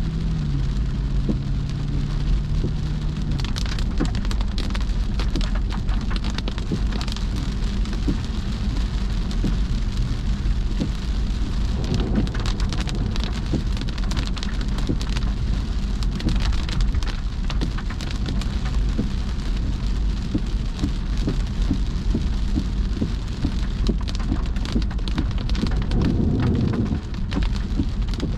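Steady rain striking a car, countless drops ticking over a steady low rumble.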